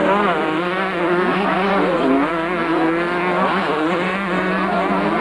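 Several motocross motorcycle engines running at once during a race, their pitches rising and falling with the throttle and overlapping one another.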